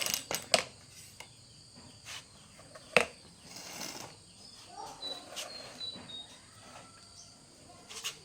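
Insects chirping steadily, broken by a few sharp clicks and knocks, the loudest about three seconds in.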